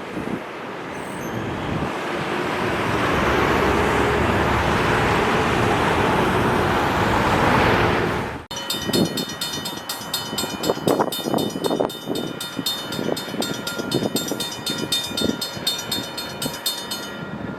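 NJ Transit commuter train passing on the track, its rumble swelling over the first eight seconds. After a sudden cut, a rapid pulsing metallic ringing plays over irregular rail clatter.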